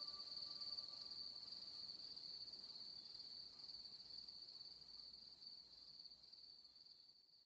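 Faint insect chorus, like crickets: a steady high trill with a pulsing chirp above it, over which the last held note of an ambient piece dies away in the first two seconds. The whole fades out at the end.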